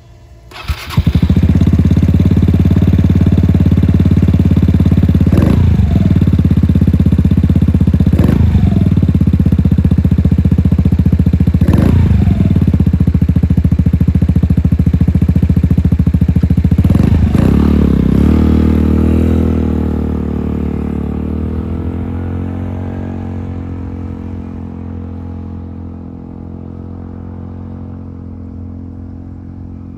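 Yamaha Majesty 125 scooter's single-cylinder engine breathing through an aftermarket BEAMS muffler. It starts about a second in and runs steadily, with four short throttle blips. It grows gradually quieter over the last dozen seconds.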